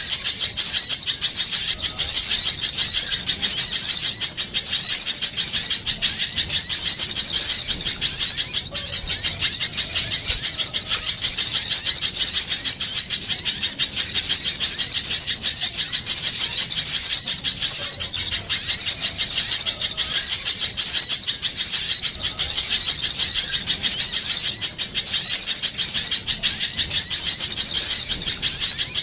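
Many small birds chattering at once, a dense unbroken stream of quick, high-pitched chirps overlapping without pause: a lure recording of noisy small birds, used to draw birds in.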